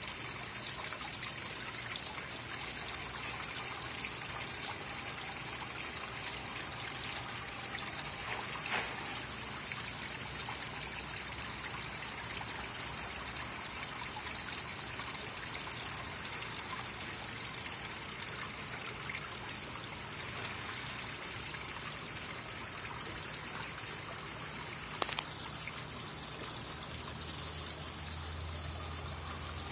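Steady trickle of running water, with a single sharp click late on.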